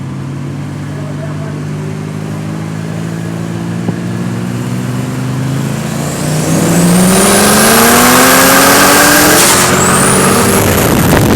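Twin-turbo Ford BA XR8 V8 running at low revs, then accelerating hard about six seconds in, with a high turbo whistle rising as it spools. Near the end the revs and whistle drop at a brief break, as at a gear change, and climb again.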